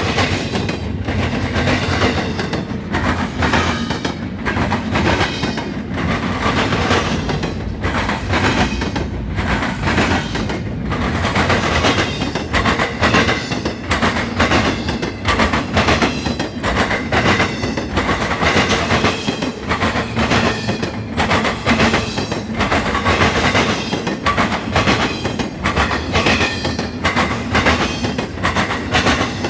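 Norfolk Southern intermodal freight train rolling past up close: a steady rumble of cars with wheels clicking over rail joints again and again.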